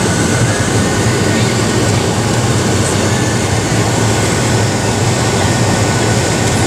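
Steady, loud cabin noise of a Boeing 737-700 in flight or on its takeoff run: the CFM56-7B jet engines and rushing air heard from inside the passenger cabin, with a low hum under an even roar.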